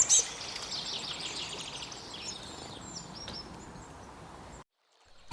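Small songbirds chirping and twittering over a faint outdoor background hiss. The chirps are loudest at the start and thin out over about four seconds. Then the sound cuts to dead silence, with a single sharp click at the very end.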